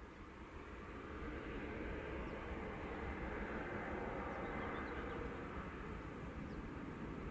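A large vehicle passing within earshot: a steady rushing noise that grows louder over the first second or so and then holds.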